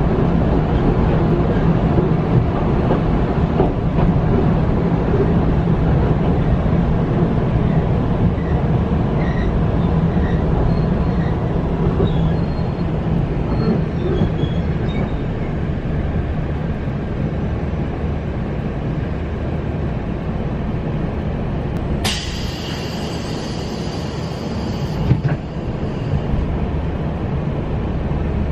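Interior running noise of an electric passenger train: a steady low rumble as it slows into a station. About three-quarters of the way through, a sudden high-pitched sound with ringing tones lasts about three seconds as the train comes to a stop, followed by a single knock.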